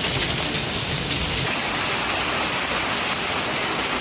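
Hail or heavy rain pelting down in a severe storm, a dense, steady hiss; its highest hiss drops away about a second and a half in.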